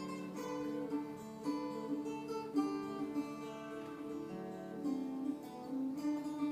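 Solo acoustic guitar-type instrument playing a slow plucked melody, with single notes ringing out one after another.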